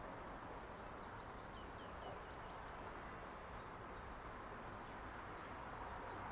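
Faint outdoor background noise with small birds chirping, a run of short, quick chirps in the first few seconds and a few more later.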